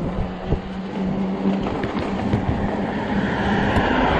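Fat-tire e-bike rolling over a bumpy, snow-covered sidewalk: a rumble of tyres on snow and ice with scattered rattles and knocks, over a steady motor hum. The rolling noise grows louder near the end.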